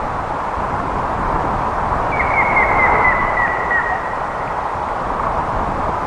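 Grey-headed woodpecker calling: a series of about nine short whistled notes, about five a second, sliding gradually lower in pitch. It sounds over a steady rushing background noise.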